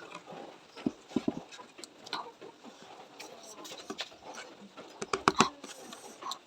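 Close-up eating sounds: chewing and crunching with sharp clicks, in two short clusters about a second in and again around five seconds in.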